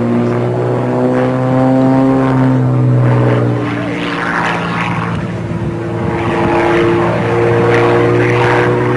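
Extra 300 aerobatic monoplane's 300-horsepower piston engine and propeller droning steadily overhead, the pitch shifting gently as it manoeuvres.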